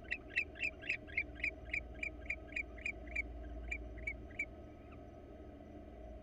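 Barn owl giving a rapid series of short twittering calls, about four a second, that slow and fade out about four and a half seconds in.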